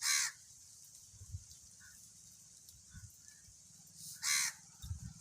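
A bird calling twice: two short, harsh calls about four seconds apart, the second a little longer than the first.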